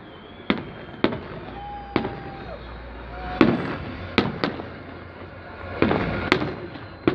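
Fireworks salute going off: about eight sharp bangs at uneven intervals, some followed by a short crackling rush, with a brief whistle about two seconds in.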